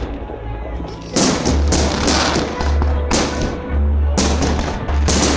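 Fireworks display: aerial shells bursting in several loud bangs a second or so apart, the first about a second in, over music with a deep bass.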